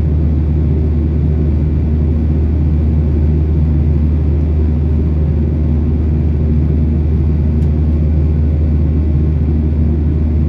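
Boeing 737-800 cabin noise heard from a window seat: the jet engines and airflow make a loud, steady low drone with a constant hum and no change in pitch.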